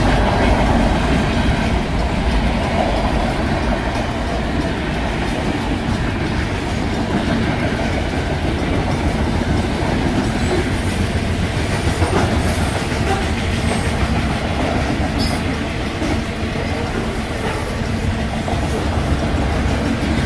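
Freight cars of a long mixed freight train rolling steadily past a grade crossing, wheels clattering over the rail joints in a continuous rumble. The crossing's bells, an electronic bell and a mechanical bell, are ringing through the activation.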